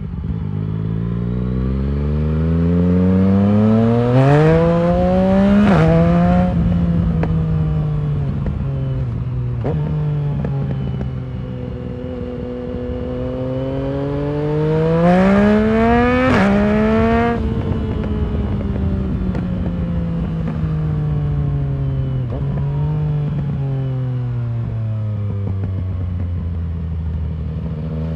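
A 2019 Yamaha MT-09's three-cylinder engine through a full Arrow exhaust system pulls hard twice through the gears. Each run has quick upshifts that drop the revs for a moment and is followed by a long fall in revs on the overrun, with short rev blips on the downshifts.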